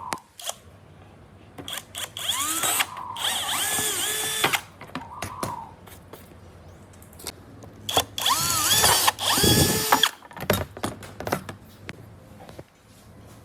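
A hand-held power tool runs in two bursts of about two seconds each, its motor pitch rising as it speeds up, with scattered clicks and knocks between the bursts.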